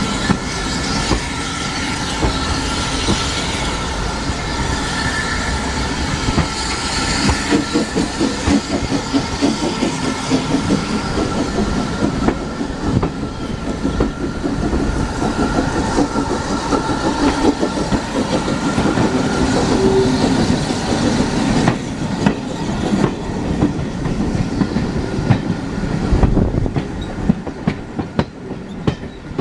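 Heritage railway train running along the line, its wheels clacking over the rail joints.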